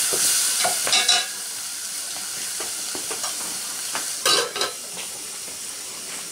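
Food sizzling and frying in a metal pot over a wood fire, with stirring and scraping. A few sharp metal clanks come about a second in and again about four seconds in, and after the first of them the sizzle is quieter.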